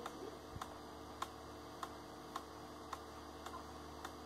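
Faint, regular ticking, a little under two ticks a second, over a low steady electrical hum.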